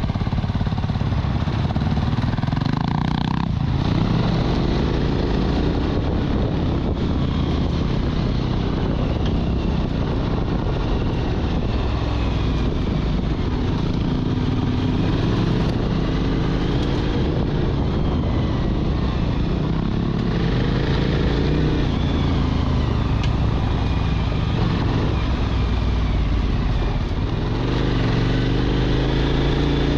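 Motorcycle engine running under way, its pitch rising and falling as the throttle is opened and closed, over steady road and wind noise.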